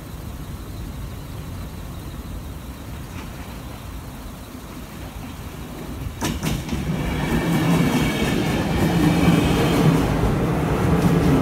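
Swedish X11 electric multiple unit passing over a level crossing. A low rumble as it approaches grows loud about six seconds in as the train goes by, with a steady hum and the wheels clacking over the rails.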